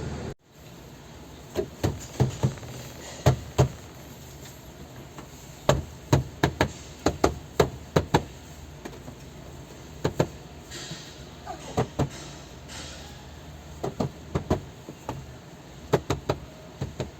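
Sharp knocks and taps on a car's plastic interior trim, irregular and often in quick clusters of two to four, while a rattle in the front right door trim is worked on.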